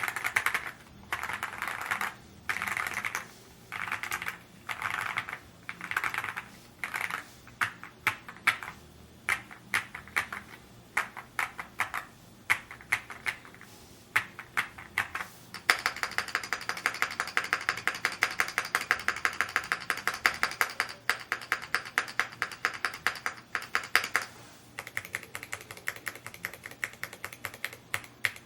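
Typing on a Rainy75 mechanical keyboard. The keystrokes come in quick clusters at first, then as separate clicks, then as a run of fast continuous typing over a light hiss in the middle, and end as separate clicks again.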